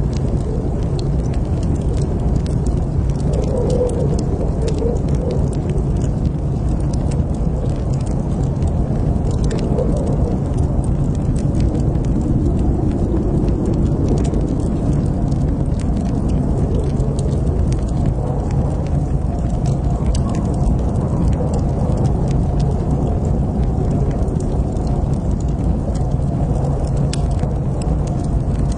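Wood fire in a fireplace crackling: scattered sharp pops and snaps over a steady low rush of burning.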